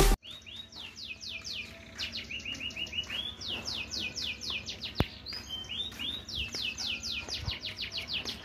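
Caged songbird singing long runs of quick, high falling notes, several a second, broken by short rising-and-falling notes. A single sharp click comes about halfway through, and music cuts off at the very start.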